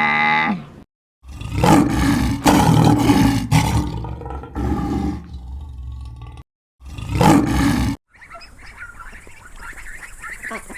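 Big cat roaring: a run of rough, loud roars for about five seconds, a short break, then one more roar. The tail of a cow's moo ends just at the start, and from about eight seconds in, ducks quacking and chattering take over.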